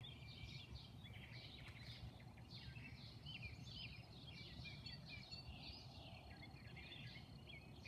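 Several small songbirds chirping and singing at once, with quick, overlapping high chirps and trills, faint over a steady low background rumble.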